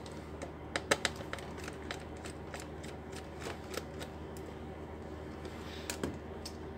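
Light clicks and taps of small laptop parts being handled and fitted, irregular, with a few sharper clicks about a second in and again near the end.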